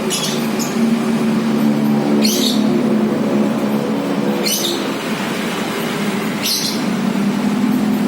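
Lovebird giving short, sharp chirps about every two seconds over a steady mechanical hum.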